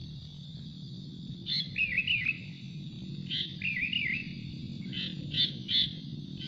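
Sooty-headed bulbul calling: two short bubbly phrases, each a sharp high note followed by a quick warble, then three quick high notes near the end.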